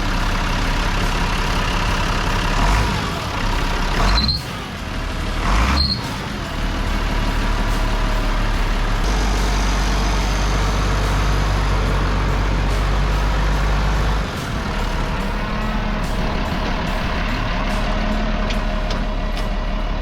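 Vehicle engine running steadily, with two short sharp sounds about four and six seconds in.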